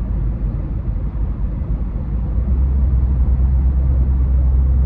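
Road noise inside a moving vehicle: a steady low rumble of tyres and engine, growing louder about two and a half seconds in.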